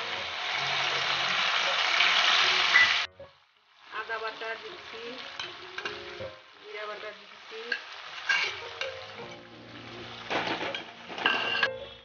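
A red purée frying in hot oil with whole spices in an aluminium kadai. A loud, even sizzle cuts off suddenly about three seconds in, followed by quieter bubbling and spattering with scattered pops, and a couple of scrapes of the spatula against the pan near the end.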